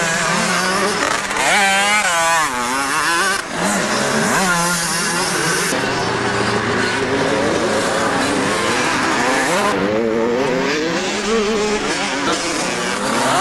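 Several motocross bike engines revving and changing pitch as riders work the throttle, overlapping one another, with sharp rises and falls in the first few seconds.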